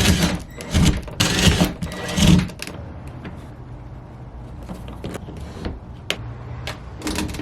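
Power drill driving screws into the door, running in three short bursts in the first couple of seconds, followed by a few light clicks and knocks of hardware being handled.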